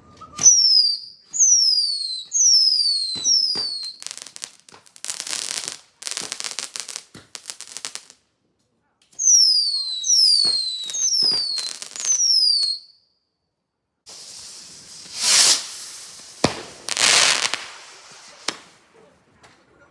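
Fireworks going off: two volleys of four whistling shots, each whistle falling in pitch, separated by a few seconds of crackling bangs. Near the end come two loud hissing bursts with a sharp bang between them.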